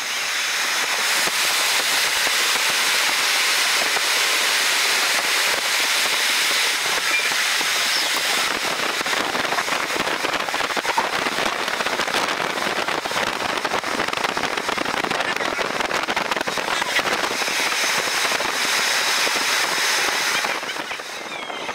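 Train passing close at speed, played back at double speed: a steady, loud rush of wheel and rail noise full of rapid crackling clicks, easing briefly near the end.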